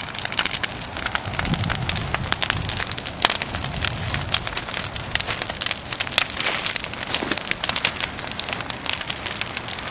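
Huge bonfire of brush and branches burning, with dense, continuous crackling and popping over a steady hiss. A low rumble swells beneath it for a few seconds about a second in.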